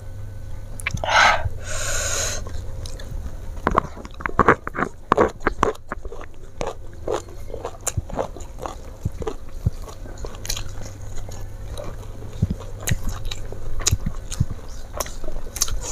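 Close-miked mouth sounds of a person chewing a hand-fed mouthful of rice and fried flatfish: irregular wet clicks and smacks, with a short breath noise about a second in.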